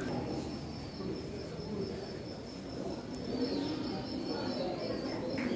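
Many birds chirping, a steady high twittering over a low background hum.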